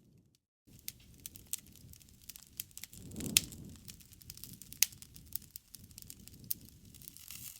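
Wood campfire crackling: a stream of small snaps and ticks over a low hiss of burning, with two louder pops, one about three seconds in and another near the middle. The sound cuts out for about half a second at the very start.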